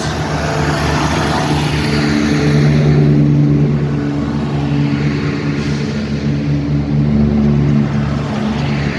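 A train moving past close by as it pulls out of the station, its engine giving a loud, steady low drone.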